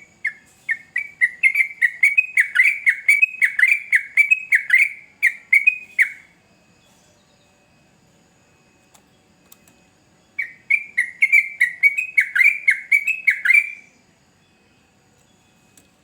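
Sooty-headed bulbul (trucukan) singing two bursts of fast, repeated bubbly notes, about three to four a second: the first lasting about six seconds, the second starting about ten seconds in after a pause.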